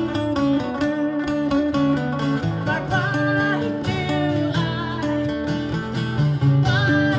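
Live music: an instrumental passage of plucked baritone guitar played through effects, with sustained notes and a steady pluck rhythm.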